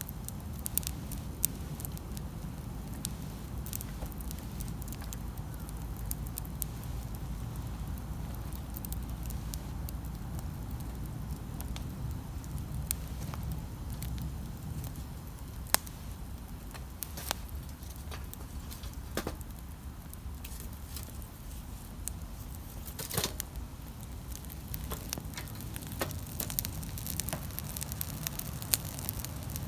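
Wood campfire crackling, with irregular sharp pops and snaps scattered through it, clustering in a few brief flurries over a steady low rumble.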